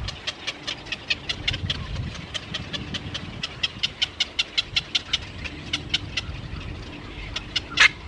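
A bird calling in a rapid, even series of short high notes, about six a second, with one louder note near the end.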